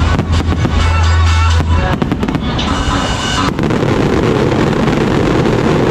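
Fireworks and firecrackers crackling and popping in rapid succession. About three and a half seconds in, the sound thickens into a denser, continuous crackle.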